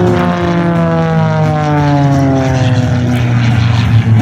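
Extra 300 aerobatic plane's Lycoming IO-540 piston engine and propeller, its note falling steadily in pitch over about three seconds.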